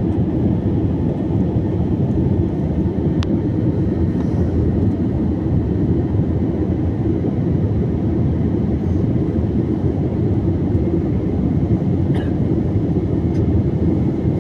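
Airplane at takeoff: a steady, loud low rumble of engine and airflow noise, with one faint click about three seconds in.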